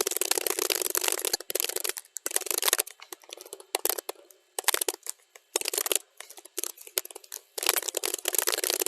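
Computer keyboard typing, sped up to double speed: fast runs of key clicks broken by several short pauses, the longest about one and a half seconds near the end.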